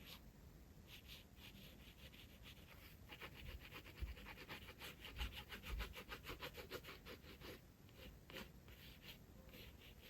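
Glass pen scratching on sketchbook paper. A quick run of short, rapid strokes comes in the middle, with slower, scattered strokes before and after.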